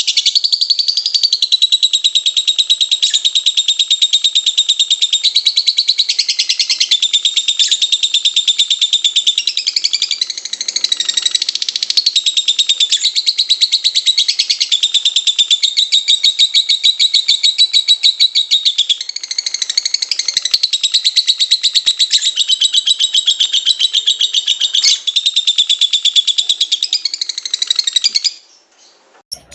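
Lovebird singing a long, unbroken, rapid high-pitched chattering trill of the 'konslet' type, which stops about a second before the end.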